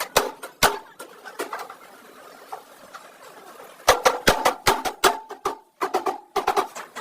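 Irregular sharp knocks and taps: a few isolated ones at first, then a quick run of strikes in the second half, some leaving a faint ringing.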